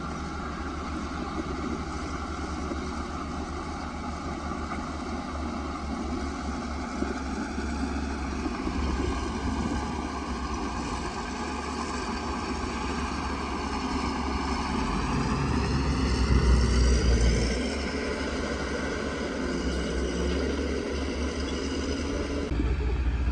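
Caterpillar bulldozer's diesel engine running under load, its pitch climbing from about halfway through and loudest about three-quarters of the way in before dropping back suddenly.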